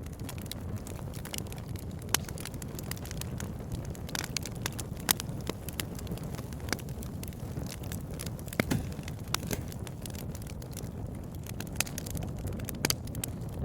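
Firewood burning and crackling, with irregular sharp pops, a few of them louder, over a steady low rushing background.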